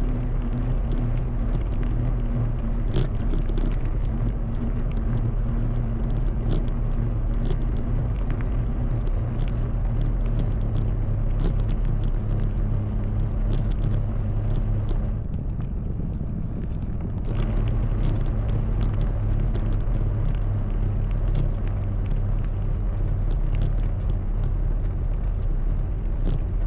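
Fat bike riding over a snowy trail: a steady low rumble of the wide tyres and drivetrain, with frequent small crunches and knocks from the ground. It softens for a couple of seconds just past the middle, then picks up again.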